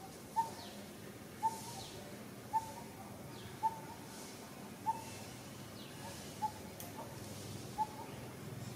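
A bird calling a single short, clear note over and over, about once a second, seven times in all.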